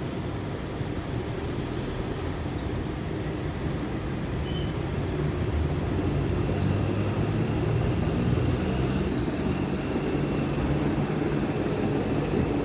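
Steady low rumbling background noise, slowly growing louder, with a few faint short high chirps over it.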